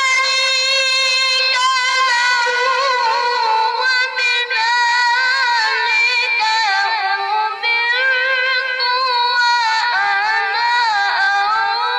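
A child's high voice reciting the Quran in the melodic tilawah style: long held notes that break into wavering, ornamented runs and glide back down, sung without a pause.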